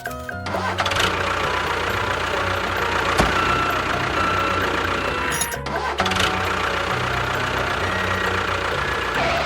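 A running engine on a miniature tractor or bulldozer in two stretches: about five seconds, a brief break, then about three more seconds. Background music plays underneath.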